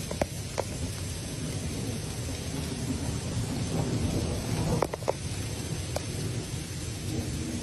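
Heavy rain falling in a storm, a steady hiss over a low rumble, with a few sharp ticks of drops or knocks about five seconds in.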